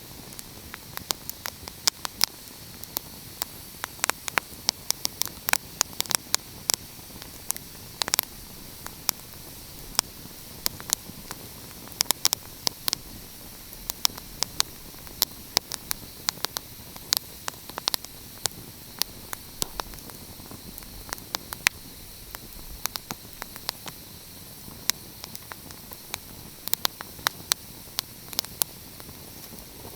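Wood fire crackling: a steady hiss under frequent sharp, irregular pops and snaps.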